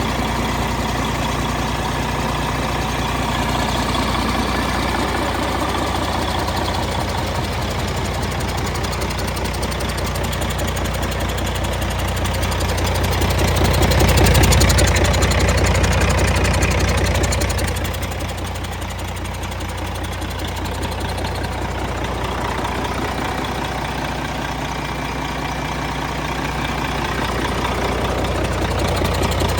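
Caterpillar C13 inline-six diesel truck engine running steadily, growing louder for a few seconds around the middle before settling back.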